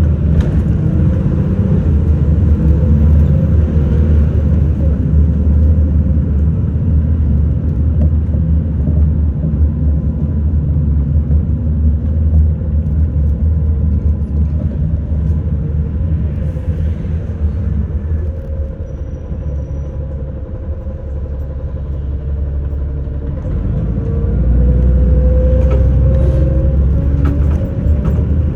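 City bus on the move: engine drone and road rumble. It eases off for a few seconds about two-thirds through, then grows louder again with a rising engine note as the bus pulls away.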